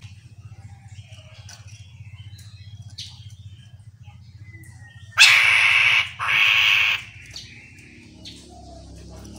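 Chestnut-capped laughingthrush calling: faint scattered chirps and short whistles, then two loud harsh calls a little past halfway, each just under a second long. A low pulsing hum runs underneath.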